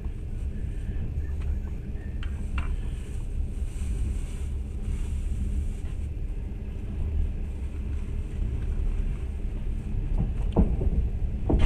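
Train running, heard from inside the carriage: a steady low rumble with a few sharp knocks, the strongest near the end.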